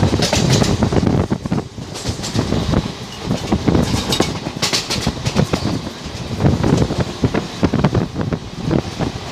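Passenger train running at speed, heard from an open coach doorway: the wheels rumble steadily, with repeated clatter over the rail joints.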